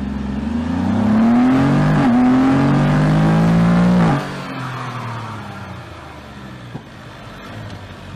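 Car engine revving hard under acceleration. Its pitch climbs, dips briefly about two seconds in as if through a gear change, then climbs again. About four seconds in it suddenly drops away to a quieter, falling engine note.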